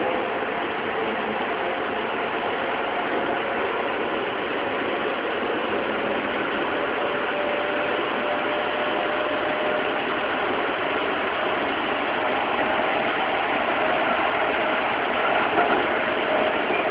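Keikyu 600 series electric train running, heard from inside the car: steady wheel and rail noise with faint, steady whining tones from its Mitsubishi GTO-thyristor VVVF traction inverter, growing a little louder toward the end.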